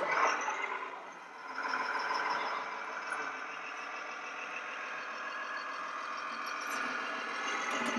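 RC model trucks and construction machines running, their engine sound coming from small onboard speakers. The steady drone dips about a second in, then picks up again and holds.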